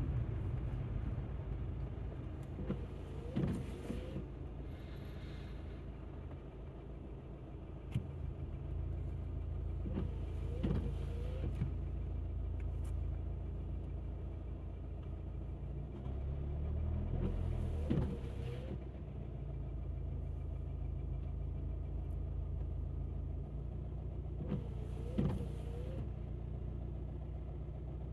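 Small car's engine and tyres rumbling steadily on a wet road, heard from inside the cabin. A windscreen wiper sweeps about every seven seconds on its intermittent setting, four times.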